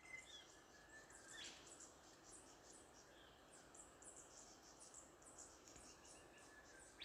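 Faint bush ambience of birds calling: many quick high chirps throughout, with a whistled call that sweeps sharply upward about a second and a half in.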